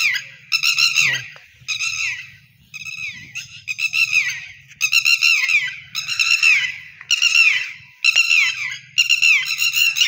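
A bird calling over and over, close and loud: about ten half-second bursts of high notes falling in pitch, roughly one a second.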